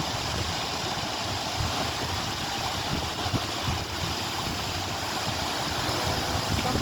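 Steady rushing of wind and choppy lake water against the shore, with gusts buffeting the microphone in a low irregular rumble.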